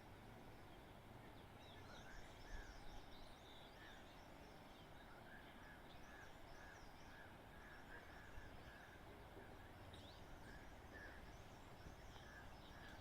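Faint, distant birds chirping over a low steady outdoor background hum, with short calls repeating throughout.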